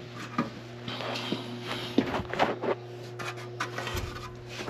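Scattered light clicks and knocks of plastic drain fittings and hose being handled, over a steady low hum.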